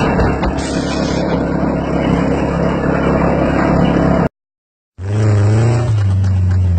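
Small petrol engine, most likely the lawnmower's, running steadily and loudly. It cuts off abruptly about four seconds in, and after a short gap a different loud sound with a wavering pitch and a deep hum begins.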